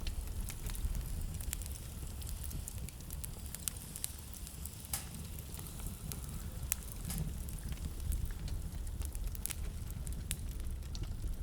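Wood fire in a fireplace crackling, with frequent sharp irregular pops over a steady low rumble.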